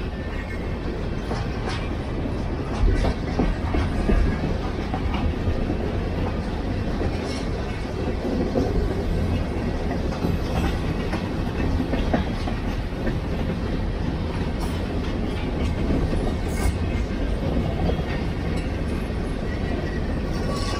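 Empty open-top aggregate cars of a freight train rolling past at steady speed, the wheels clicking over the rail with scattered sharp clanks and rattles from the empty cars.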